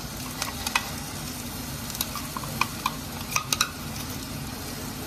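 Chopped onions sizzling steadily in hot oil in a steel kadai, with a scattering of sharp clinks from a spoon scraping spiced yogurt out of a bowl into the pan.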